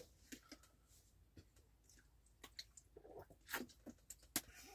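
Faint chewing with scattered small clicks and taps, the clearest few near the end.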